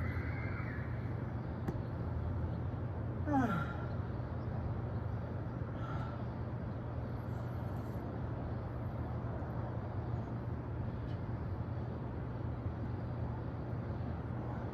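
Steady low rumble of city traffic. About three seconds in, a brief sound sweeps quickly down in pitch.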